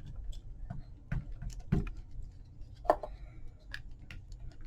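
Scattered light taps and clicks of craft supplies being handled and set down on a work table, with one sharper knock about three seconds in.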